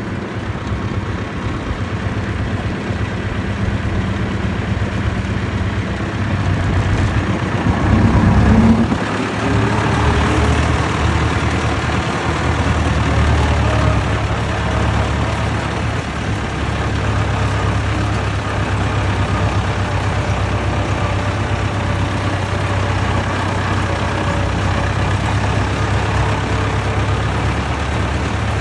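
Vintage tractor engines running steadily at low revs. About eight to nine seconds in, one gets louder, with a brief rise in pitch.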